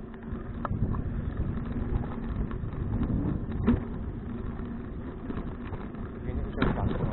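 Wind buffeting the action-camera microphone and road rumble while riding a touring bicycle, with three sharp clicks or rattles, the loudest about three and a half seconds in.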